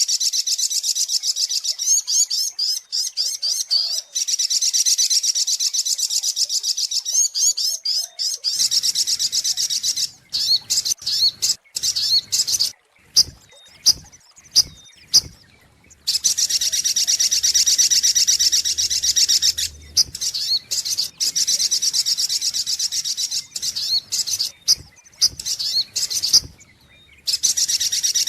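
Lure recording of a sogok ontong (spiderhunter) calling: long runs of fast, high repeated notes, with a stretch of separate sharp chirps in the middle.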